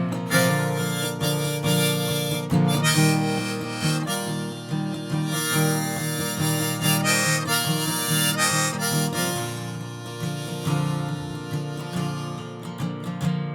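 Instrumental break in a folk song: a harmonica plays a lead over strummed acoustic guitar.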